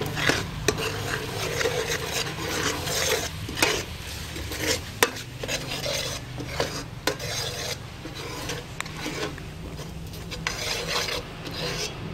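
A utensil stirring and scraping in a pan of caramelized palm-sugar sauce with garlic and seasonings, with irregular clicks of the utensil against the pan and a light sizzle, over a steady low hum.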